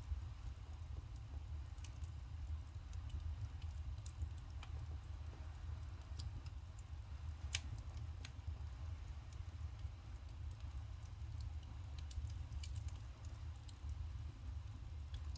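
Burning firewood crackling, with irregular sharp pops and ticks over a steady low rumble.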